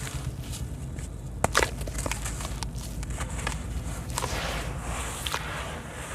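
Wet sand-cement crumbling and crunching, with scattered sharp cracks; the loudest comes about a second and a half in.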